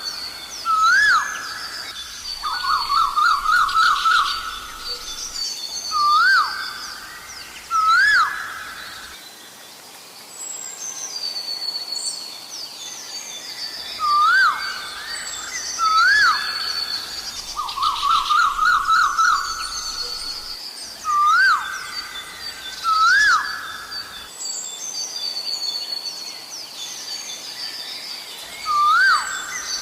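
Asian koel calling: loud rising whistled notes in pairs, broken by a quick run of about six shorter rising notes, the whole group sounding twice. Other small birds sing more faintly and higher in the background.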